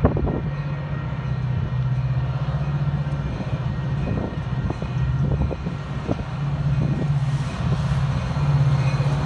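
Metra commuter train's diesel locomotive approaching, its engine a steady low drone that grows a little louder near the end, with a few light clicks in the middle.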